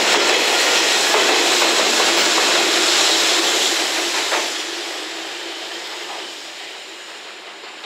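Container wagons of a freight train rolling past with steady wheel-on-rail noise and some clickety-clack. About four seconds in, the rear banking EF210 electric locomotive passes, and the sound fades steadily as the train draws away.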